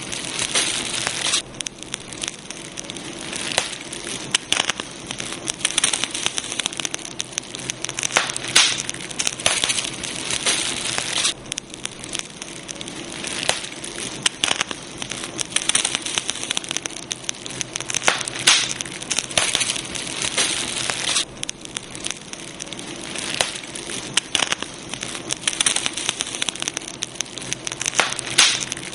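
Campfire crackling: a dense run of sharp snaps and pops over a steady hiss, at times busier and at times calmer.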